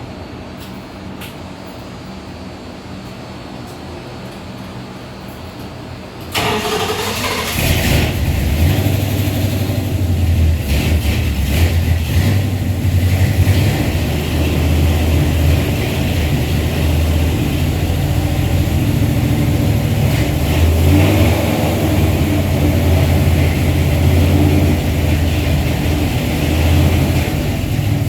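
Carbureted 360 Chrysler LA V8 cranked over on its starter about six seconds in, catching and then running unsteadily at idle. The owner takes the poor running for a vacuum leak, such as an intake manifold leak.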